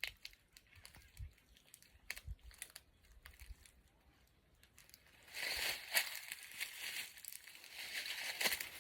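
Rustling and crinkling, faint with a few light clicks at first, then louder and denser from about halfway through.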